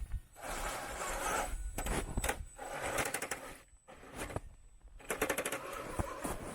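Radio-controlled car driving over snow in short spurts, its motor and drivetrain rattling and clicking, with two brief stops in the middle and a quick run of clicks after them.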